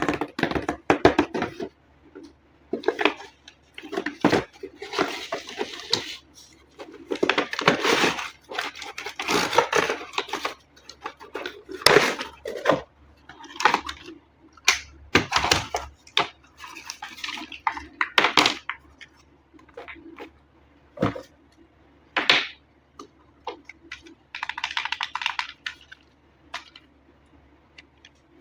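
Toy packaging and hard plastic parts being handled: irregular sharp clicks and knocks, with several short bursts of crinkly rustling.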